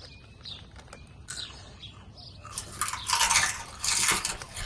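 Crunchy spicy corn snack pieces (Sabritas Turbos Flamas) being bitten and chewed close to the microphone. Faint clicks come first, then loud, dense crunching starts about halfway through.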